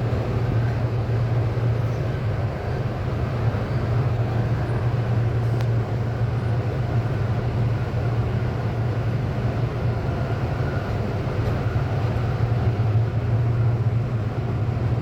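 Sydney Metro driverless train running, a steady low rumble and hum.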